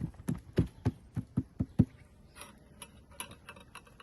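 Hands patting and slapping oiled msemen dough flat on a surface: a quick run of soft slaps over the first two seconds, then lighter taps.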